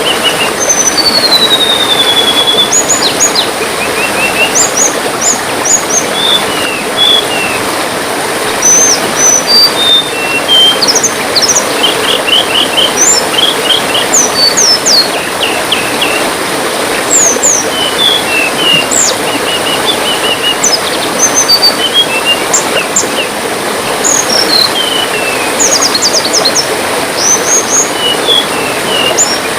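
Water trickling steadily, with many small songbirds chirping over it: quick chirps and short whistled notes, some sliding down in pitch, come thick and fast throughout.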